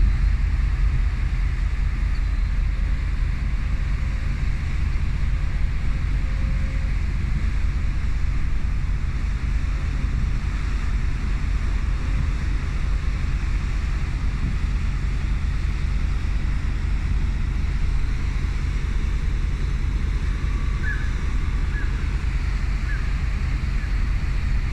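Steady low rumble of a ferry's diesel engines, with wind on the microphone.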